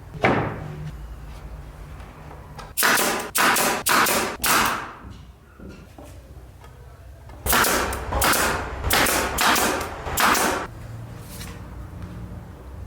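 A single knock, then short rasping strokes of sandpaper on wood: four in quick succession, a pause of a few seconds, then five more.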